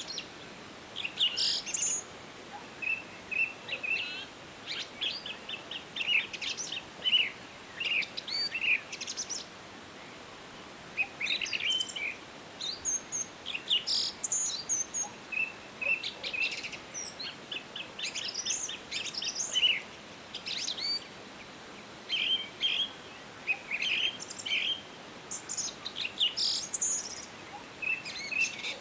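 Several songbirds singing and calling: rapid trills and short high chirps and whistles, coming in bursts every second or two over a faint steady background hiss.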